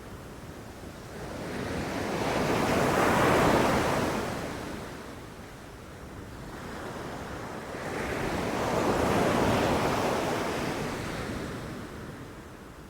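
Ocean waves breaking on a beach, two surges of surf swelling and falling back about six seconds apart.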